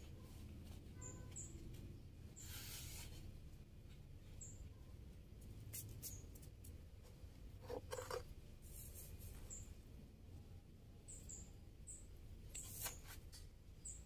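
Faint, short, high-pitched chirps every second or two, from a small bird, over soft rustles and taps of hands pressing potting soil around a cutting in a plastic pot. A brief louder rustle comes about 8 seconds in.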